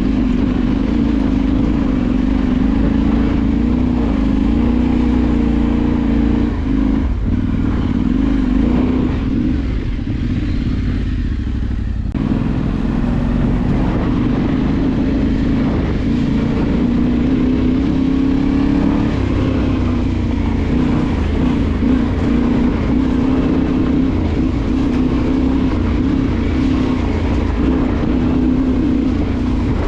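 Off-road motorcycle engine running under way, its pitch rising and falling with the throttle, with brief dips about seven and twelve seconds in, over a steady low rumble.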